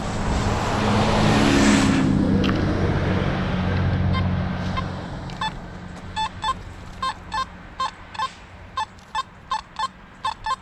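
A motor vehicle drives past, loudest about two seconds in and fading away. From about halfway through, a metal detector gives a run of short, same-pitched beeps, about two a second, as it passes over a buried target.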